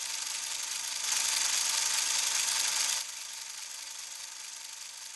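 Static hiss from the RC truck camera's wireless link, whose audio is not working. It swells louder about a second in, drops back about two seconds later and slowly fades.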